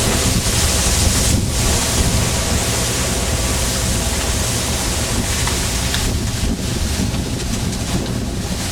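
Fishing boat's engine running with a steady low hum, mixed with wind buffeting the microphone and the wash of the sea.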